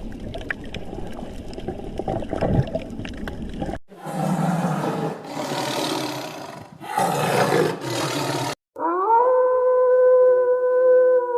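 Wild animal calls in sequence: a rough growling rumble, then two loud, breathy roars, then a long howl that starts about nine seconds in, rising in pitch and then holding a steady note.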